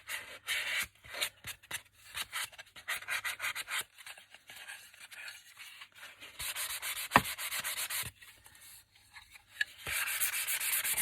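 Mini serving board being rubbed down by hand with an improvised abrasive in place of sandpaper, in quick repeated scrubbing strokes, to rough up its food-safe finish so gesso will stick. A sharp knock about seven seconds in, and steadier continuous scrubbing near the end.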